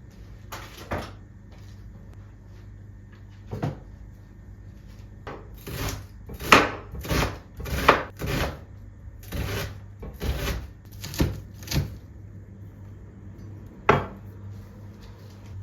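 Knife chopping on a wooden cutting board: a few single knocks, then a run of about ten chops roughly two a second in the middle, and one more near the end, over a low steady hum.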